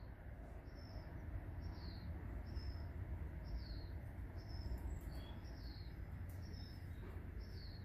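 A small bird calling over and over: short high chirps, a flat note followed by a falling one, repeating about every second, over a low outdoor background rumble.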